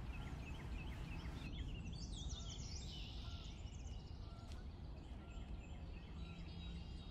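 Small birds chirping and calling: a run of short rising chirps at the start, then a flurry of quick falling calls about two seconds in and more chirps near the end, over a steady low background rumble.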